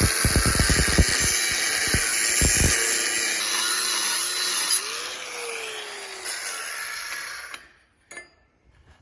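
A power tool runs with a steady, hissing whine as metal parts are worked, with several sharp knocks in the first three seconds. The tool's note rises and falls about five seconds in, and the sound cuts off suddenly near the end, followed by a single click.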